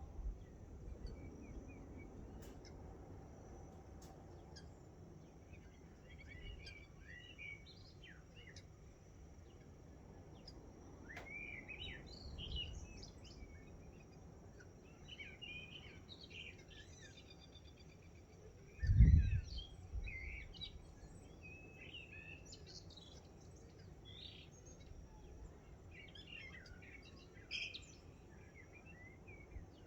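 Mixed dawn birdsong: many short chirps and calls from several birds, scattered and overlapping, over a low outdoor rumble. About two-thirds of the way through, a brief low thump is the loudest sound.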